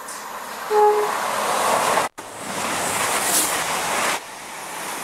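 CrossCountry Voyager diesel multiple unit passing through at speed. It gives a short two-tone horn note about a second in, then a loud rush of wheel and air noise that falls away about four seconds in.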